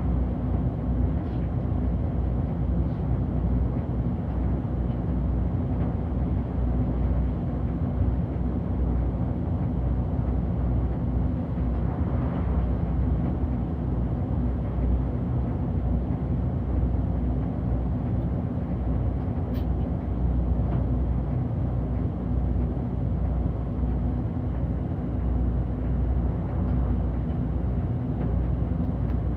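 City bus heard from inside at the front while it drives: a steady low engine and road rumble with a constant hum.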